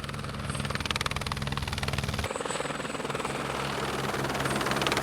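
Helicopter running, the rapid chop of its rotor blades over a steady engine hum. The low hum changes abruptly about two seconds in.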